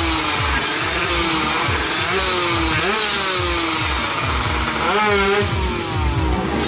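Kawasaki Ninja 150 two-stroke drag bike engines revving, pitch rising and falling in repeated blips, with a quick steep climb about five seconds in.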